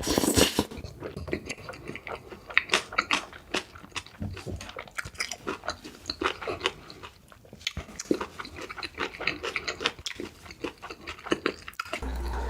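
Close-miked eating sounds: a person chewing and biting food, with a rapid run of wet, smacking mouth clicks. A louder noisy burst comes right at the start.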